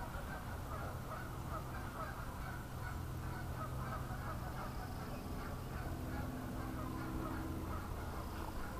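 Birds calling in a continuous chatter of many short calls over a steady low hum.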